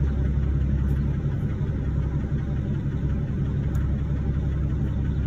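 Vehicle engine running steadily at idle, a low even rumble.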